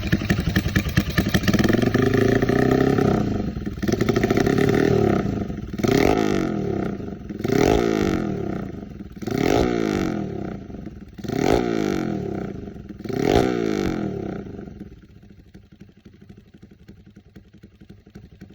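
Motorcycle engine breathing through an aftermarket round BMS muffler, revved in a series of throttle blips about every two seconds, each rising and falling back. It drops much quieter in the last few seconds.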